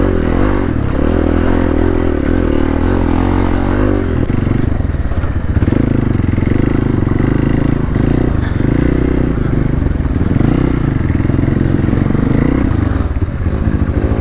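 Hero Xpulse 200's single-cylinder engine running on an off-road trail at low revs, its note changing about four seconds in to a slower, more pulsing beat.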